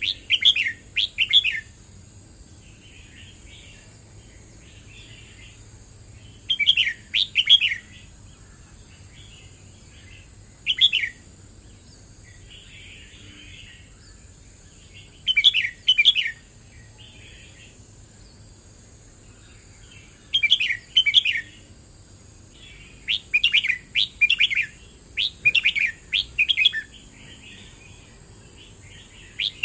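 Red-whiskered bulbul singing short, quick phrases of clear notes, one every few seconds, with a busier run of phrases near the end.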